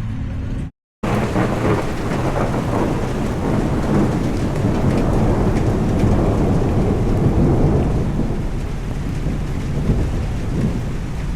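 Rolling thunder rumbling over steady heavy rain, swelling in the middle and easing off near the end. The sound cuts out for a moment about a second in.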